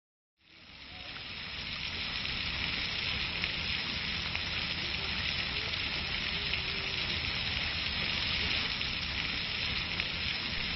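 A steady hissing, crackling noise like rain or sizzling, fading in over the first two seconds and then holding even.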